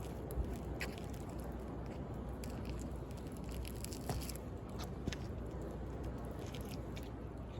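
Wood bonfire crackling with scattered sharp pops, the louder ones about half a second in and around four seconds, over a steady wash of sea waves.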